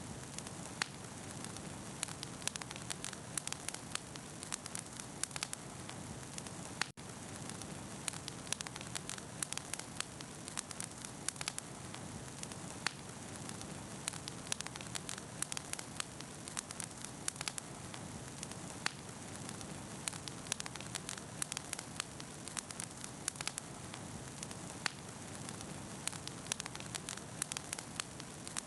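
Wood bonfire crackling, with a dense scatter of sharp pops and snaps over a steady soft rush of flame. The sound cuts out for a split second about seven seconds in.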